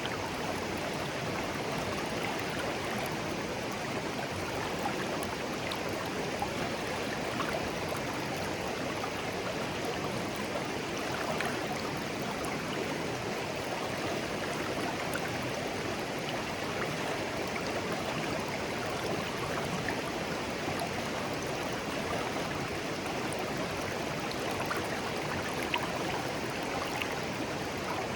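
Shallow stream flowing steadily over stones, a continuous babbling and gurgling with small splashes and droplet ticks scattered through it.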